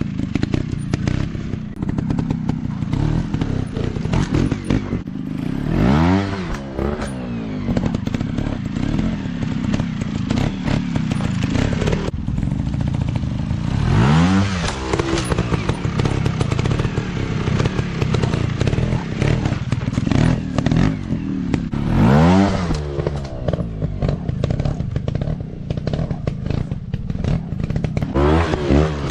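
Off-road motorcycle engines running loudly and continuously, revving up and back down about four times, with a clatter from the bikes working over rough ground.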